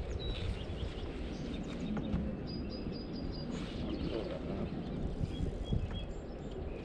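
Birds chirping over a steady low outdoor rumble. One bird gives a short run of repeated high notes about two and a half seconds in, and another a shorter run about five seconds in, with a few faint light knocks between.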